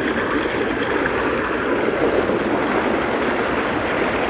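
Steady rush of moving and splashing water in a water park lazy river, with no single event standing out.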